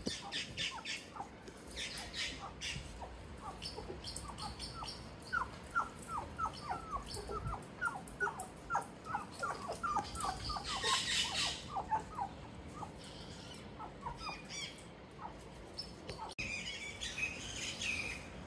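A bird calling in a quick series of short, falling chirps that speeds up and then thins out. There are a few bursts of hissing noise near the start, in the middle and near the end.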